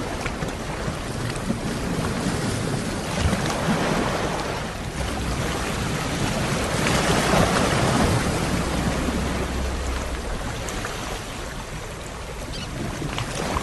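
Sea waves washing onto the shore and drawing back: a steady rushing that swells about halfway through and eases near the end.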